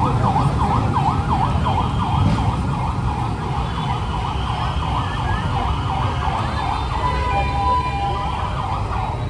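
Emergency vehicle siren in yelp mode, its pitch rising and falling rapidly about three to four times a second, with a brief steady two-note tone near the end before it stops, over a steady low rumble of street traffic.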